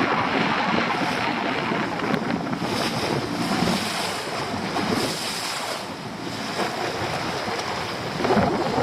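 Wind buffeting the microphone over sea water splashing and lapping around a small boat.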